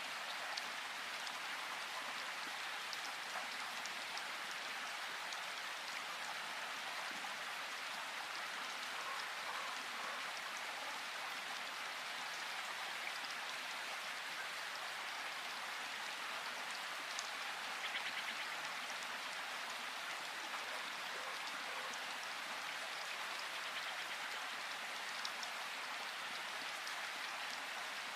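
Steady rain falling in a forest, an even hiss with scattered drip ticks.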